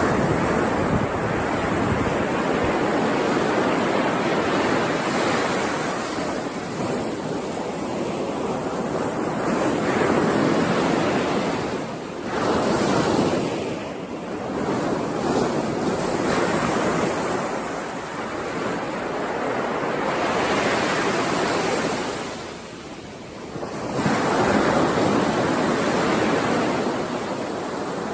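Sea waves breaking and washing on a shore, the surf swelling and easing every few seconds. A short lull comes just before a strong surge near the end.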